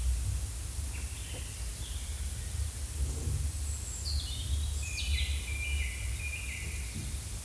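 Forest ambience recording with birds calling in short phrases of stepped, partly falling notes over a steady low rumble.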